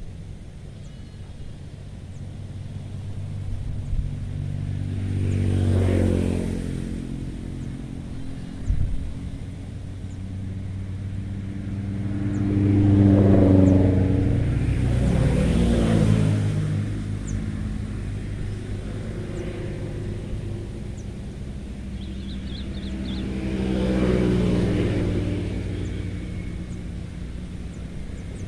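Motor vehicles passing one after another: three engine passes that each swell up and fade away, with a steady traffic hum between them.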